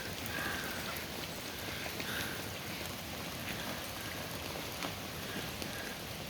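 Heavy rain falling steadily, a constant hiss with scattered sharper ticks of drops striking close by.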